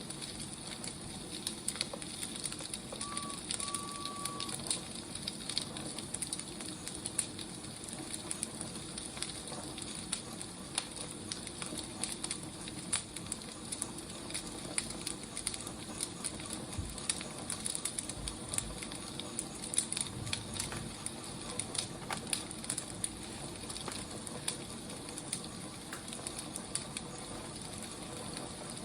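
Wood fire burning, a steady crackle and hiss with sharp pops scattered throughout.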